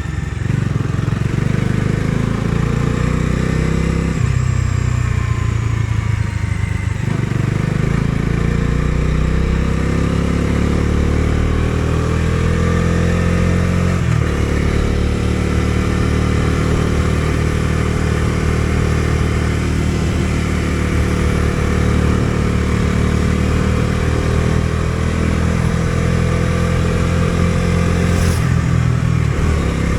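Bajaj Dominar 250's single-cylinder engine under way, rising in pitch as it accelerates, with short breaks at the gear changes about 4, 7 and 14 seconds in, then running at a steady speed. A brief dip in the engine note comes near the end.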